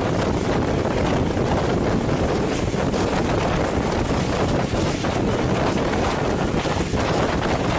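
Wind buffeting the microphone held out of a moving passenger coach's open doorway, over the steady rumble of the train running along the track.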